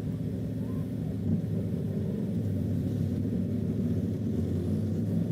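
Steady low drone of a car's engine and road noise while driving, even throughout.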